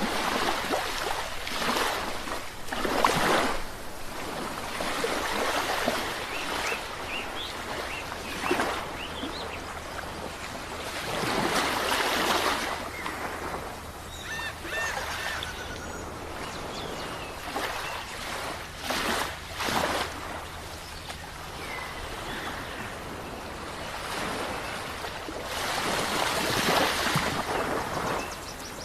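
Sea waves breaking and washing on a shore, the surf swelling and fading again several times, loudest a few seconds in, in the middle and near the end.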